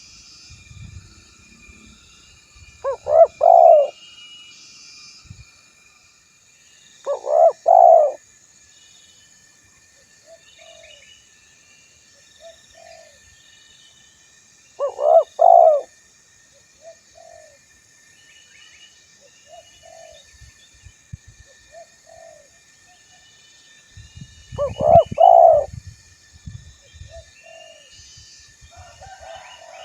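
Male spotted dove (tekukur) cooing: four loud phrases of several quick coos, about 3, 7, 15 and 25 seconds in, with fainter single coos between them. Small birds chirp faintly and high-pitched in the background.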